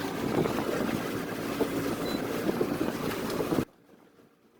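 Wind buffeting the microphone and water rushing past the trimaran's hulls while sailing in a strong breeze, a dense steady rush that cuts off suddenly near the end.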